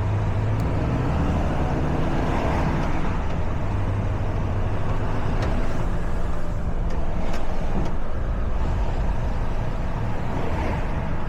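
Truck's diesel engine running steadily on the road, with tyre and road noise over it.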